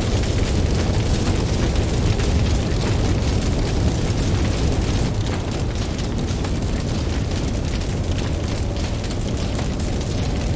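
Campfire crackling with frequent small pops over a steady deep rumble of ocean waves.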